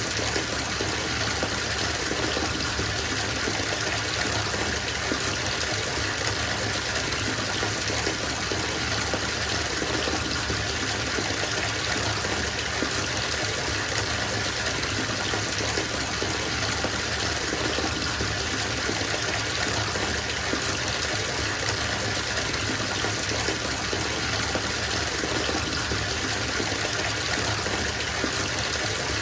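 Water running steadily from a bathtub tap into the filling tub, an even splashing rush with no change.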